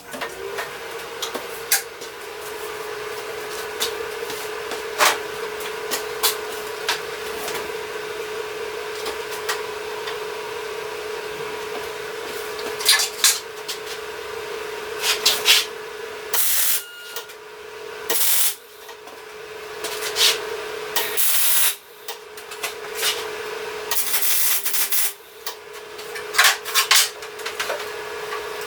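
A power tool working metal: a steady hum with crackling and scraping that runs unbroken for about sixteen seconds, then cuts off and restarts several times in stretches of a few seconds.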